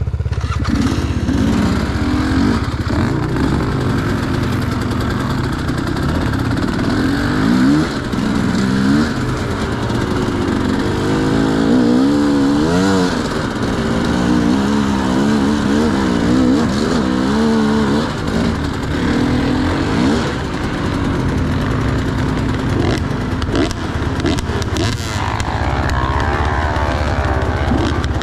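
Enduro motorcycle engine under way off-road, its revs rising and falling again and again with the throttle.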